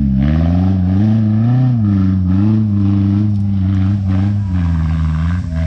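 Off-road buggy engine running at low revs under light, varying throttle, its pitch rising and falling gently as it crawls along.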